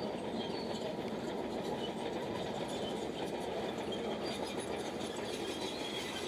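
Bulldozer running steadily as it works, with faint, short high squeaks on top.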